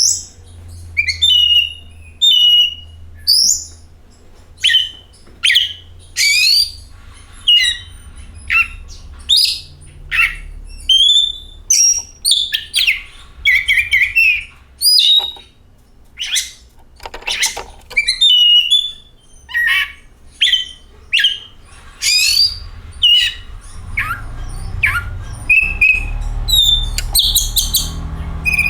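Oriental magpie-robin (kacer) singing a string of short, varied whistles and chirps, a new phrase about every second, many sweeping up or down in pitch. A low steady hum lies underneath and gets louder near the end.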